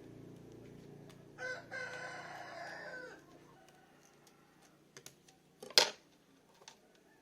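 A rooster crows once, about a second and a half in: a short note, then a longer held one. A low hum fades out under it. Near the end there is a sharp click, the loudest sound, with a few lighter taps around it.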